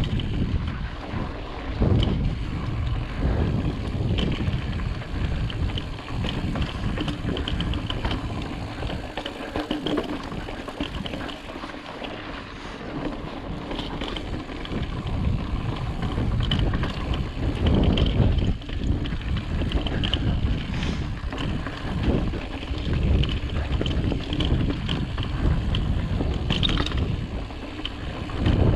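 Wind buffeting the microphone over the rolling rumble of a full-suspension mountain bike riding over slickrock, with frequent knocks and rattles from bumps in the trail.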